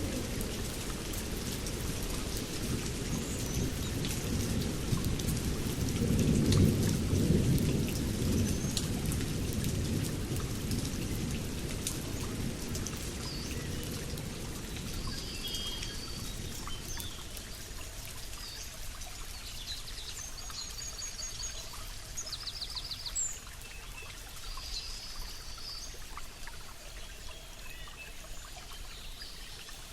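Steady rain falling, with a low rumble of thunder swelling and dying away in the first third. From about halfway, birds chirp and trill over the rain.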